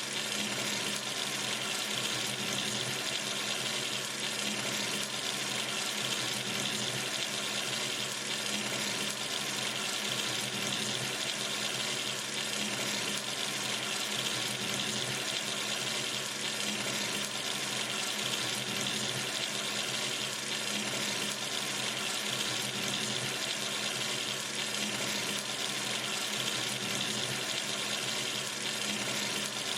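Tap running steadily into a sink: an even, unbroken splashing hiss of water, loudest in the upper range.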